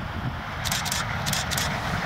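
Approaching passenger train running along the track: a steady, slowly building rumble of wheels on rail, with a few short high hisses partway through.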